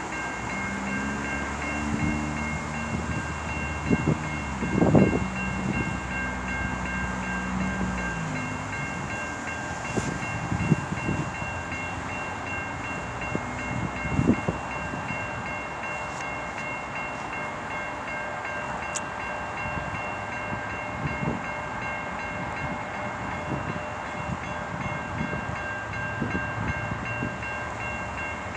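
A train passing a level crossing. A locomotive's engine drone drops in pitch and fades about eight seconds in as it goes by, then the railcars roll past with occasional knocks from the wheels on the rails, over a steady high ringing tone.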